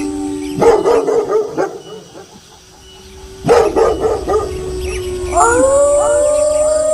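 Wolves howling together in long held notes at several pitches, broken twice by loud, harsh dog barks, about half a second and three and a half seconds in. Near the end several new howls rise and settle into long notes.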